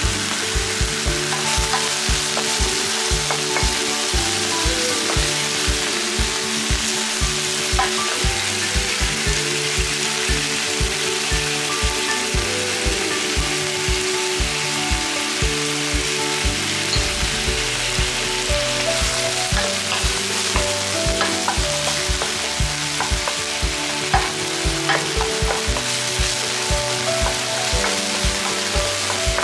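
Octopus, garlic and red chili frying in olive oil in a nonstick pan, sizzling steadily as a wooden spatula stirs them. Background music with a steady beat plays underneath.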